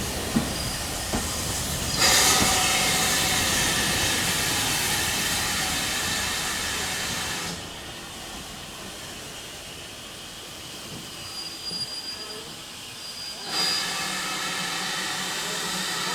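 GWR Manor-class 4-6-0 steam locomotive 7820 Dinmore Manor and its train: steam hissing over the running noise of the train on the rails. The sound jumps louder about two seconds in, turns quieter about halfway through, and comes back up shortly before the end.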